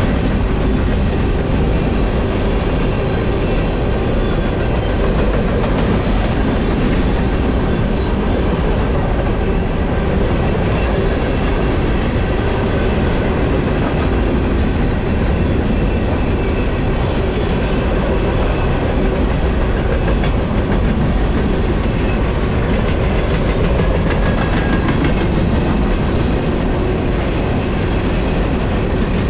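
Long freight train of covered hopper cars rolling past close by: a steady loud rumble and clatter of steel wheels on the rails.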